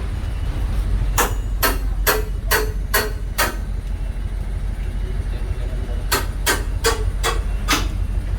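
Train running with a steady low rumble, its wheels clacking over a rail joint in two quick runs of sharp clicks, six about a second in and five around six seconds in.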